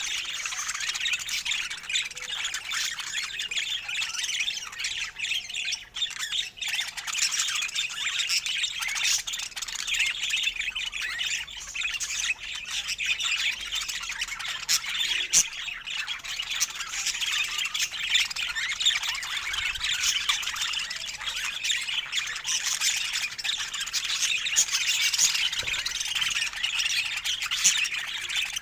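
Budgerigars chattering continuously, a dense stream of quick high chirps and squawks.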